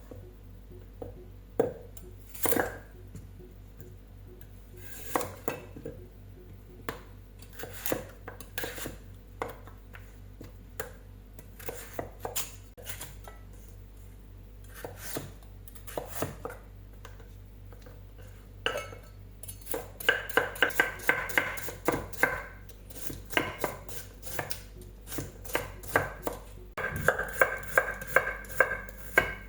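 Kitchen knife cutting carrot on a cutting board: scattered single cuts at first, then fast, even chopping at about four strokes a second from about two-thirds of the way in, with a short pause before a last run.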